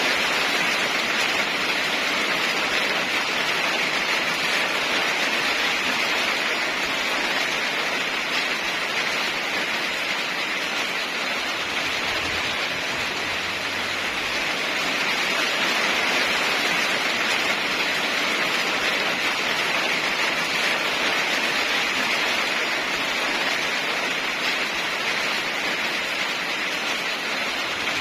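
Heavy rain falling steadily, an even hiss of downpour with no breaks.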